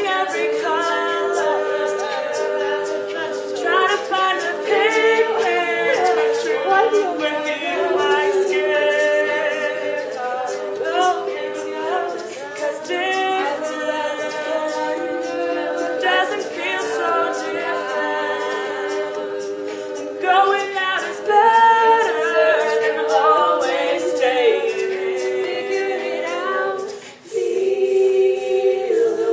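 A cappella group singing: close vocal harmonies with sustained chords and moving lines, with vocal percussion clicks above. The singing drops out briefly near the end, then comes back in.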